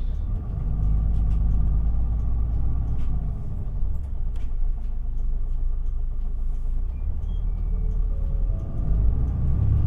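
Isuzu Erga city bus heard from inside the passenger cabin while under way: a diesel engine drone with low rumble and road noise. The level swells about half a second in, and the engine note climbs toward the end as the bus accelerates.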